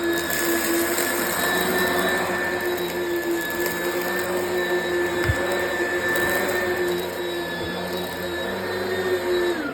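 Oreck XL Commercial upright vacuum cleaner running steadily, a motor whine over rushing air, with one small knock about halfway through. At the end it is switched off and the whine falls quickly in pitch as the motor winds down.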